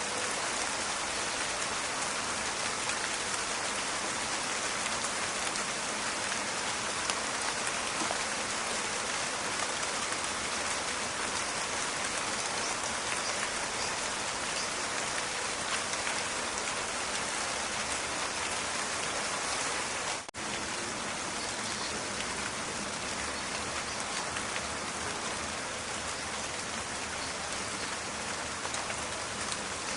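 Steady rain falling, a dense even crackle of drops. About two-thirds of the way through there is a momentary dropout, then the rain carries on.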